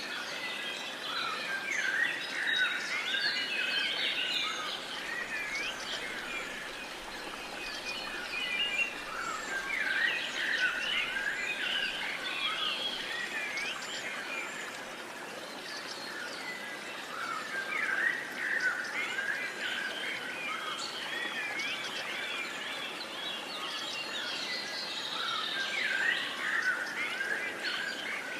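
Several songbirds chirping and calling together, in busy spells every several seconds, over a steady outdoor hiss.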